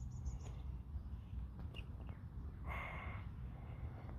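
Outdoor ambience: a steady low wind rumble, with a quick run of four high bird chirps right at the start and a brief scratchy burst about three seconds in.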